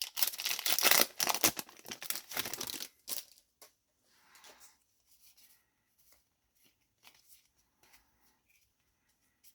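Foil booster-pack wrapper crinkling and tearing open for about three seconds. Then only faint scattered rustles and light taps as the pack is handled.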